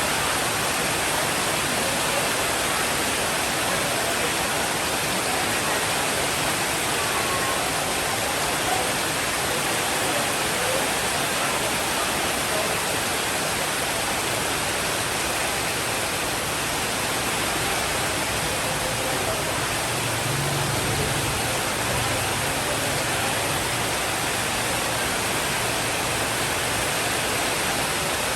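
Steady, dense rainfall hiss without a break, with a brief low rumble of distant thunder about twenty seconds in.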